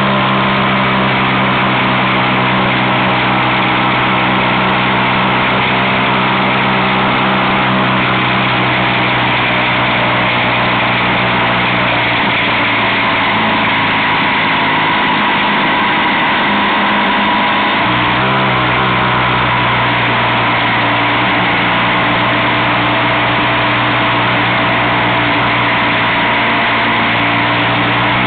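Motorcycle engine running at road speed, heard from on the bike with heavy wind rush over the microphone. About twelve seconds in the engine note drops back under the wind, and it picks up again firmly about eighteen seconds in.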